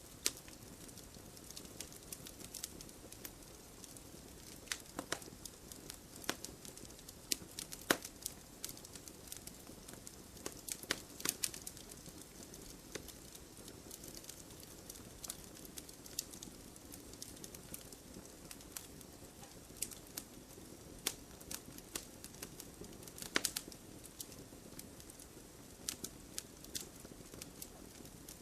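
Wood fire burning in a fireplace: irregular crackles and sharp pops, a few louder snaps among them, over a low steady rumble of the flames.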